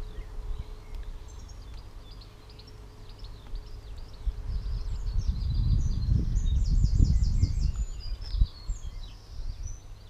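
Garden birds chirping and calling, with a quick run of about seven high notes around seven seconds in. Beneath them is a low, uneven rumble that grows loudest in the second half.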